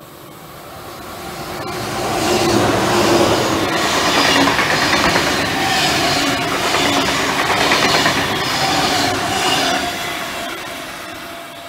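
Sydney Trains V-set double-deck electric intercity train passing at speed, its wheels clattering in a steady rhythm over the rails with a faint hum beneath. The sound swells as the train approaches and fades near the end as it goes away.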